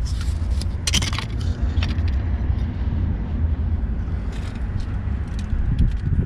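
Metal tools clinking and rattling several times, as a wrench is picked up and handled, over a steady low rumble.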